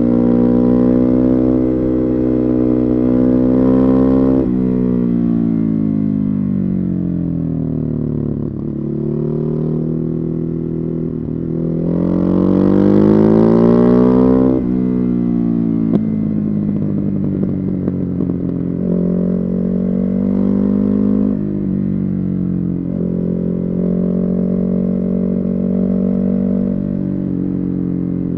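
Ducati Hypermotard 950's Testastretta 11° V-twin through a Termignoni exhaust, heard from on board while riding. The revs rise, drop off, then climb hard to the loudest point about halfway through. They fall away again and hold at steadier, moderately varying revs to the end.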